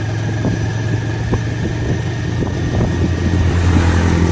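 Motorcycle engine running steadily while riding, with a few knocks, growing louder about three seconds in.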